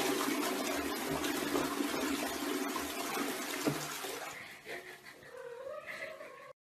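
Toilet flushing: water rushes into the bowl and fades over about four seconds. Near the end a cat gives a drawn-out meow that wavers in pitch.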